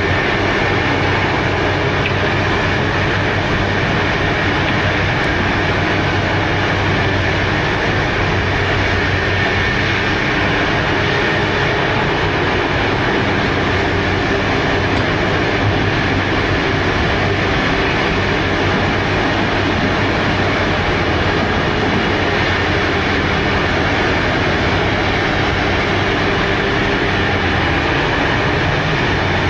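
Liebherr 964 B hydraulic excavator working as it loads a truck, its diesel engine and machinery making a steady, unbroken drone with a low hum.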